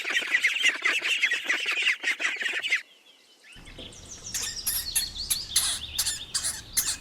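Ducklings peeping rapidly in a dense chorus. The peeping stops abruptly under three seconds in. After a short silence comes a second stretch of higher peeps mixed with sharp clicks.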